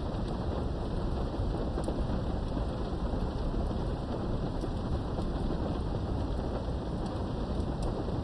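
Steady rain with a continuous low rumble of thunder, and scattered sharp drop ticks.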